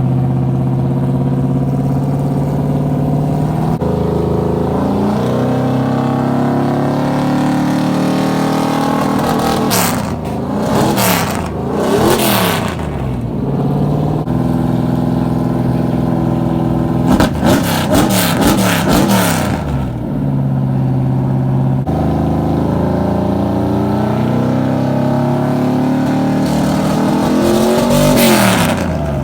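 Car engines idling steadily, with several spells of quick throttle blips where the revs rise and fall sharply: a few seconds around a third of the way in, again past the middle, and once more near the end.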